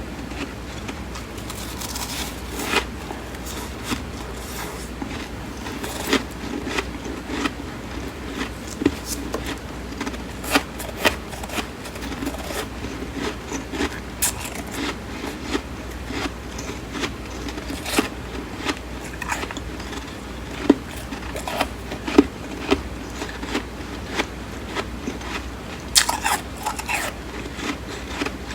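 Close-up chewing of flaky freezer frost: crisp crunching and crackling bites, many sharp crackles a second, with a louder burst of crunching near the end.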